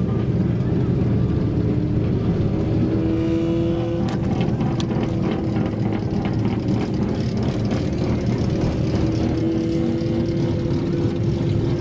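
Car engines running at a steady cruise, their pitch drifting only slightly, with a few sharp clicks about four to five seconds in.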